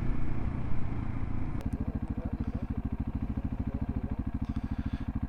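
Single-cylinder adventure motorcycle engine running, then settling to a slow, even idle of about a dozen beats a second after a sharp click about a second and a half in.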